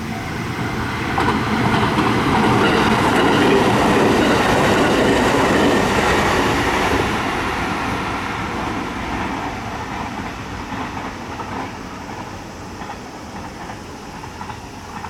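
A train passing at speed, its wheels clattering over the rails. It is loudest for the first half, then fades slowly as it runs away.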